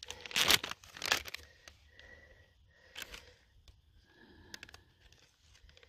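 A snap-lock plastic bag being handled and opened: a few short crinkles and clicks, with a quick cluster of small clicks near the end.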